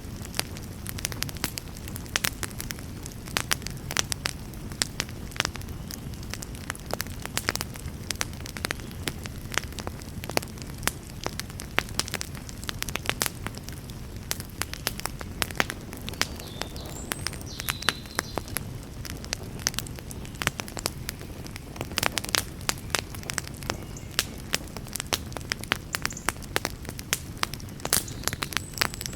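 Wood fire burning, with dense, irregular crackles and pops over a steady low rumble of flames.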